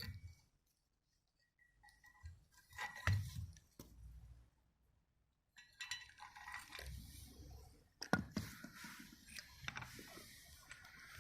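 Scattered clinks and knocks, as of hard objects being handled, with a brief near-silent gap in the first half and a sharp knock about eight seconds in.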